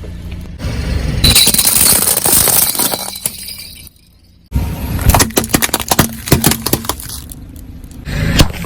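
Brittle objects crushed under a car's tyres: glassy cracking and clinking crackle in several short takes that start and stop abruptly, with a brief gap about four seconds in.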